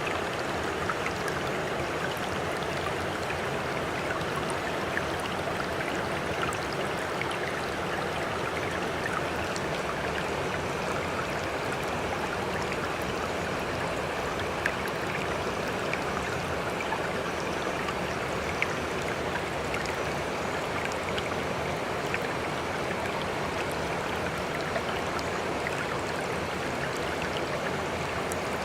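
Steady wash of sea water, even and unbroken, with tiny droplet-like ticks scattered through it.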